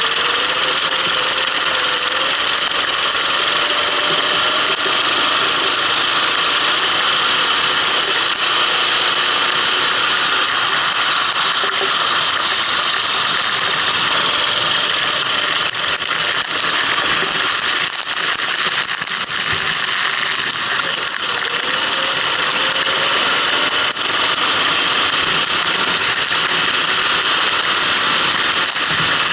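Kart engine running on the track, heard from on board. Its pitch rises and falls gently under a dense, steady hiss.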